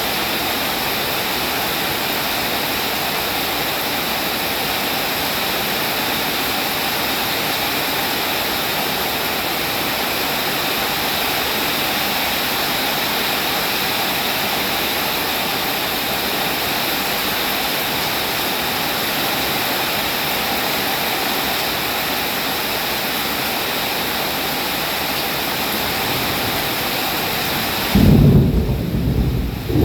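Rain falling steadily, a dense even hiss. About two seconds before the end, a loud low rumble of thunder comes in and the high rain hiss falls away.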